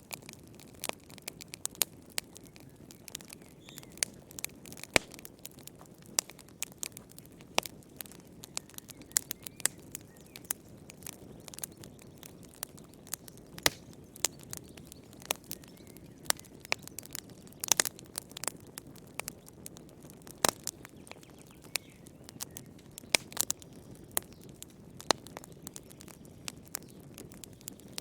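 Fire in a fireplace crackling: irregular sharp pops and snaps, several a second at times, over a soft steady low rush of the flames.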